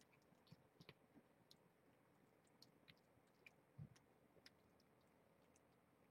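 Near silence, with faint, irregular small clicks and one soft low thump a little past the middle.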